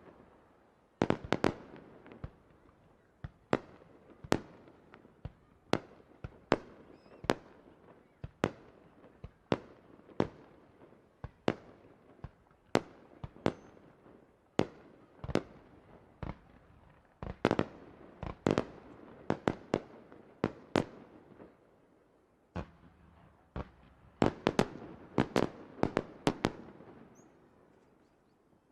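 Aerial fireworks shells bursting in rapid succession: dozens of sharp bangs, each trailing off in an echo, bunched into dense volleys about a second in, around the middle and toward the end, then dying away.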